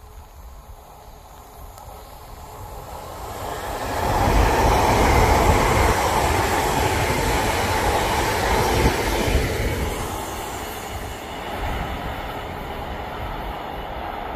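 London Northwestern Railway electric multiple unit passing at speed: wheel-on-rail running noise swells over the first few seconds, is loudest for about six seconds as the carriages go by, then fades as the train pulls away.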